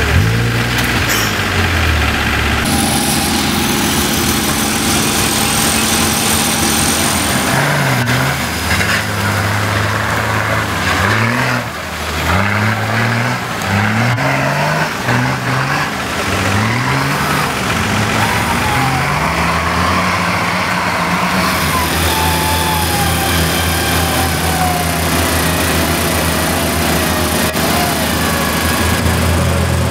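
Off-road 4x4 engines revving hard in repeated bursts, the pitch climbing and dropping about once a second, with a wavering whine over the engine in the later part.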